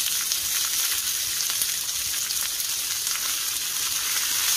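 Sliced onions sizzling steadily in hot oil, being stirred with a silicone spatula.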